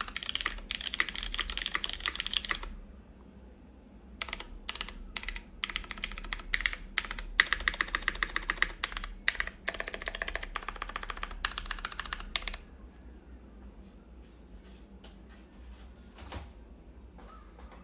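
Typing on a CannonKeys Blaine v2 SE mechanical keyboard, top-mounted, with lubed Cherry MX Brown tactile switches, a full aluminium plate and GMK keycaps. Bursts of fast keystrokes are broken by a pause of about a second and a half; past the middle the typing thins to a few single key presses.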